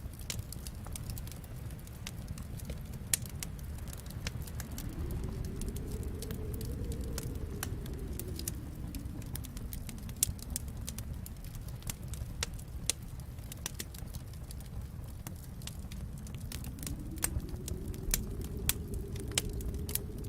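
Wood fire crackling with scattered sharp pops, over a low steady rumble and a howling snowstorm wind that swells and fades twice.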